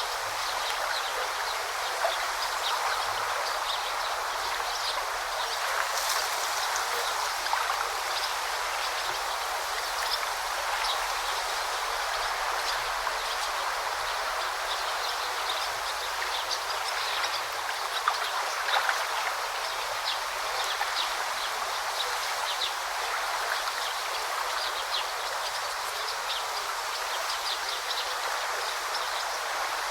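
Forest stream babbling steadily, with scattered short high bird chirps over the water.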